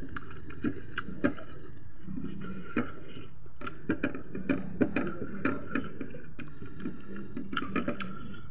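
A person eating chicken by hand: chewing and lip smacks, with irregular sharp clicks throughout.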